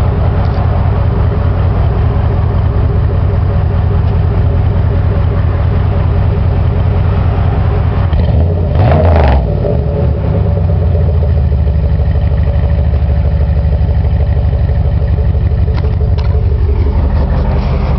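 2005 Pontiac Grand Prix GXP's 5.3-litre LS4 V8 idling through a muffler-delete exhaust that keeps the cat and resonator. About halfway through it is revved once, the pitch rising quickly and dropping back to a steady idle.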